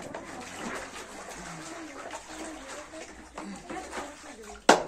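Soft, low, wavering cooing calls of a bird, with a sharp knock near the end.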